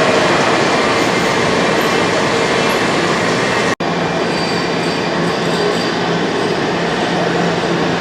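Washington Metrorail subway train running in a station: loud, steady rail noise. It cuts out for an instant about four seconds in, and a faint high whine follows the break.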